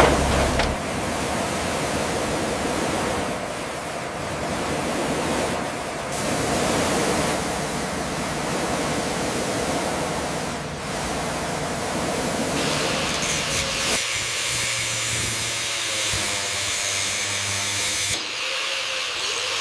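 Steady hissing, rushing noise like spraying or blowing, changing character a few times; about two-thirds of the way through it turns brighter and thinner.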